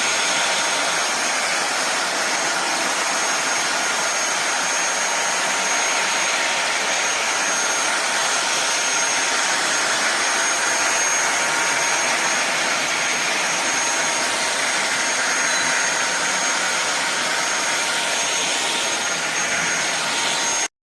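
Fieety 45 kPa cordless stick vacuum cleaner running steadily: a whine over rushing air. It stops abruptly near the end.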